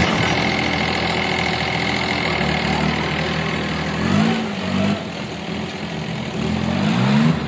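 Tractor engine idling, revved up briefly twice: once about four seconds in and again near the end.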